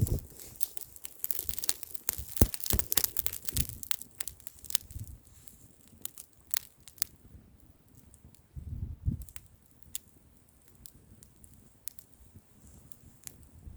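Wood bonfire crackling and popping, with dense sharp pops in the first few seconds that thin out to scattered ones. Wind buffets the microphone in a brief low rumble about nine seconds in.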